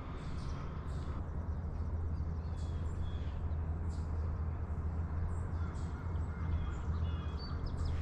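Faint, short chirps and call notes of small songbirds, scattered through the middle and later part, over a steady low rumble.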